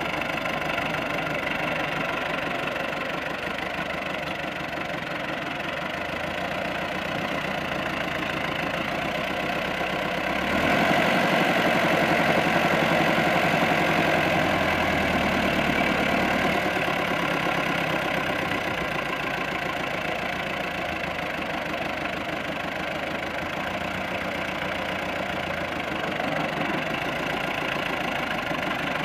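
Tractor diesel engine running steadily. It grows louder for about six seconds from about ten seconds in, then settles back to its earlier level.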